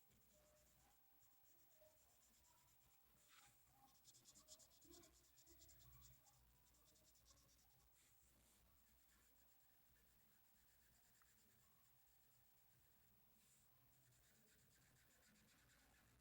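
Faint scratching of a pen colouring on paper, in quick back-and-forth strokes. It is busiest a few seconds in.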